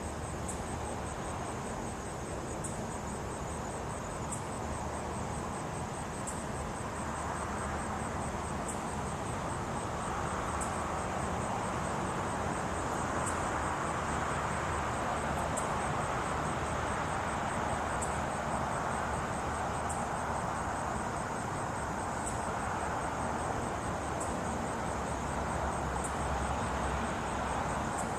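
Night insects chirping: a steady, high pulsing trill with a louder chirp about every two seconds, over a steady hiss that grows louder about ten seconds in.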